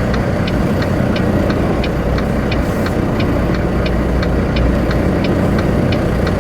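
Semi-truck diesel engine running slowly and steadily while the truck is maneuvered into a parking spot, with a light ticking about three times a second over it.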